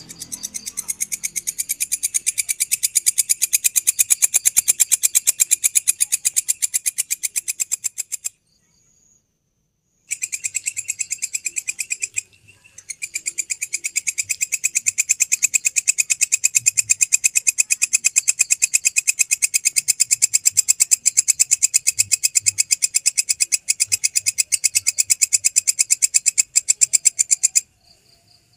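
A grasshopper (belalang) singing: a fast, even train of high-pitched, rasping pulses. It stops for about two seconds near the 8-second mark, starts again, and cuts off shortly before the end.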